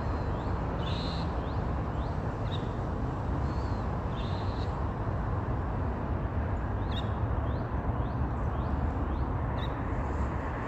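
Birds giving short, high call notes, some rising, repeated every second or so over a steady low rumble.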